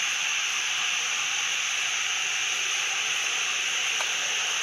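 Steady high-pitched hiss that holds even throughout, with a faint tick about four seconds in.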